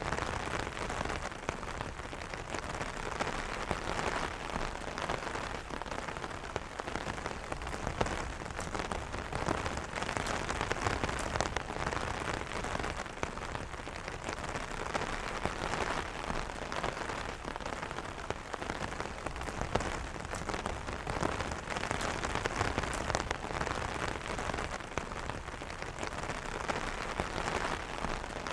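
Rain falling steadily on an umbrella: a constant patter of many drops tapping the fabric canopy, with no thunder.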